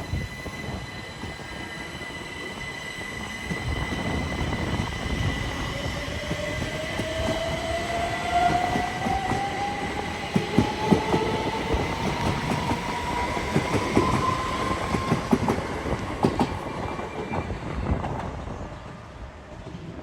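Electric passenger train passing: a rumble that builds, with a whine that rises steadily in pitch and a run of wheel knocks over rail joints, loudest in the middle and fading near the end.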